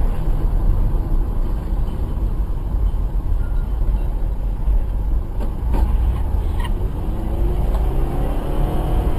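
Motor vehicle engine and road noise, a steady heavy low rumble, with a few light clicks about six seconds in and an engine note rising near the end.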